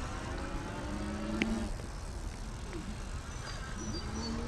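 Mokwheel Granite electric trike's motor whining faintly, rising in pitch as it speeds up, over a steady background noise. A single sharp click comes about one and a half seconds in.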